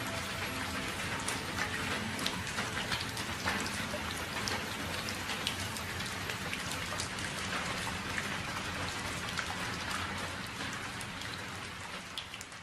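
Steady rainfall, a dense patter of individual drops, fading out near the end.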